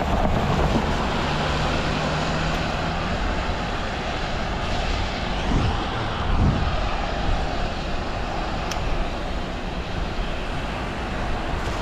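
Steady rushing noise of riding a bicycle along a wet road, with a brief low hum near the start and a couple of short swells about midway.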